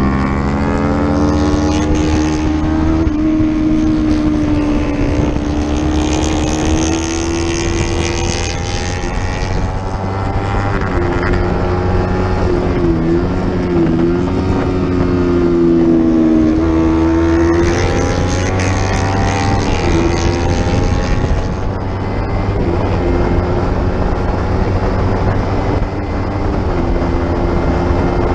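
Racing motorcycle engine at full song, its note rising and falling as the bike accelerates, shifts and brakes, with wind rushing over the microphone.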